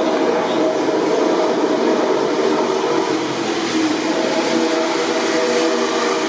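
MotoGP racing motorcycle engines running at a steady pitch, a dense layered drone with no rise or fall.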